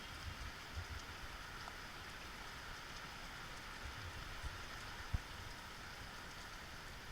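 Steady hiss of rain falling, with a few low thumps, the loudest about five seconds in.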